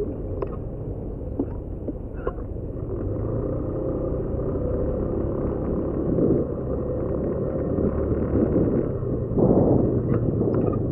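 Motorcycle engine running steadily on the move, under a low rumble of wind on the microphone. A louder rush of noise comes about nine seconds in.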